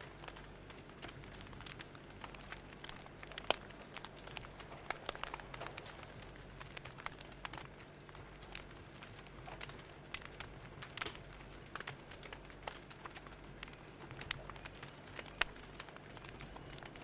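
Fire crackling: irregular sharp pops and snaps over a soft steady hiss.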